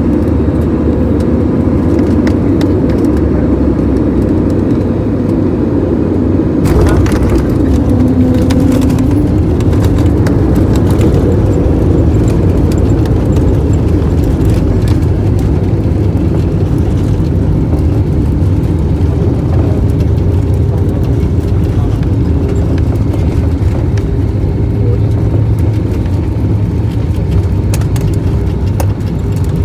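Airliner cabin noise: a loud, steady low rumble of the jet in flight or on the runway. About seven seconds in it grows fuller and slightly louder, with scattered rattles and clicks from then on.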